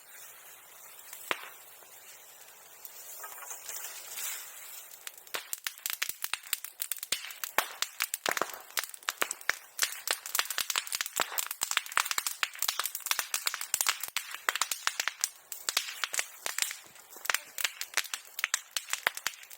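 Bonfire burning old silkworm-rearing tools, crackling. It is fairly quiet for the first few seconds, then from about five seconds in it becomes a dense, continuous run of sharp pops and crackles, like firecrackers.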